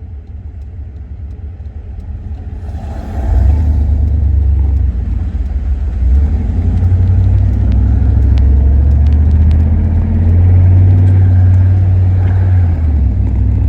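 1990 GMC 1500 pickup's engine pulling hard as the truck is driven, heard from inside the cab; it gets much louder about three seconds in and keeps up a loud, steady drone, its pitch shifting as it climbs through the gears on a transmission that is slipping.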